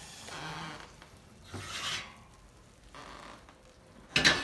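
A few short rubbing and scraping sounds, then a sharp knock near the end.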